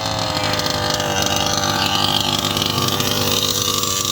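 Small two-stroke engine of a gas-powered RC car running at high revs. Its note drifts slightly lower over the first couple of seconds, then holds steady.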